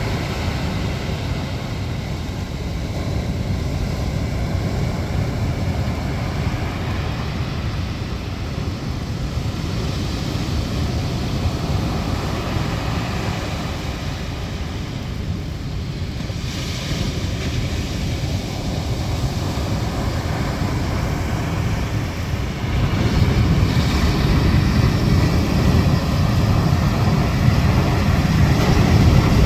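Strong wind buffeting the microphone over rough surf on a stormy winter sea, a steady rushing noise that grows louder about three-quarters of the way through.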